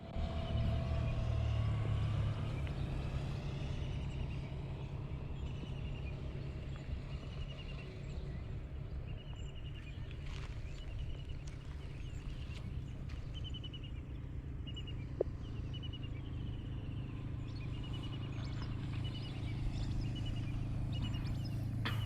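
Car driving, a steady low rumble of engine and road noise, with short high chirps repeating about once a second over it.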